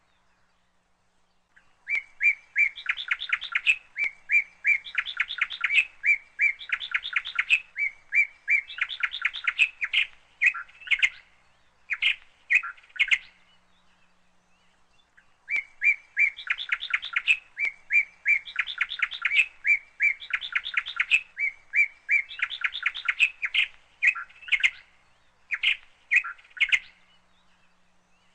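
A bird chirping in rapid, high runs of twittering, with a pause of about two seconds midway.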